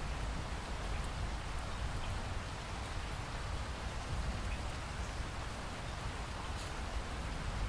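Steady rain falling, an even hiss with a low rumble underneath and a few faint individual drops ticking.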